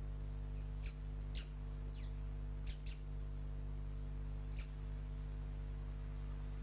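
Small garden birds calling: about six short, high chirps that each fall in pitch, two of them in a quick pair, over a steady low hum.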